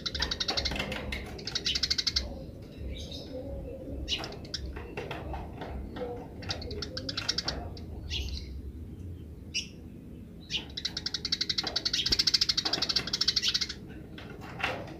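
Eurasian tree sparrow chattering in fast rattling runs of chirps, the 'grece' call, in the first two seconds and again from about 11 to 14 seconds, with scattered single chirps between. A low steady hum runs underneath.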